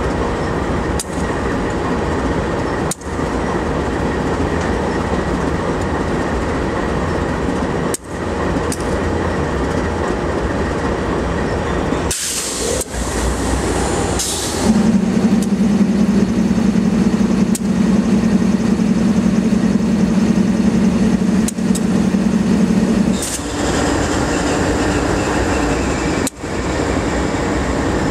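CSX train running by with a continuous rumble and rail noise, broken by a few brief dips. About halfway through, a short hiss is followed by one long steady low blast of the locomotive horn lasting about eight seconds.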